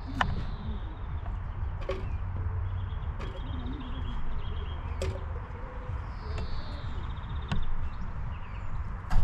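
Outdoor campsite ambience: a steady low rumble, a few scattered light clicks and knocks, and two short high chirping trills, a few seconds apart.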